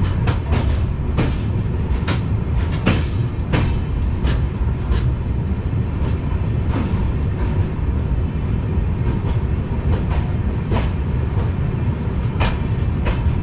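Himsagar Express passenger train rolling slowly along a station platform, heard from an open coach doorway: a steady low rumble with sharp, irregularly spaced clicks and clanks of the wheels over rail joints and points.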